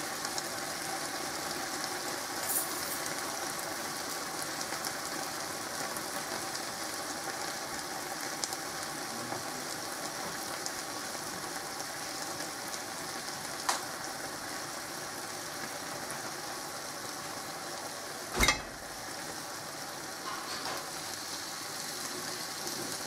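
Green beans in tomato sizzling steadily in a frying pan. A few sharp clicks, and a louder knock about eighteen seconds in.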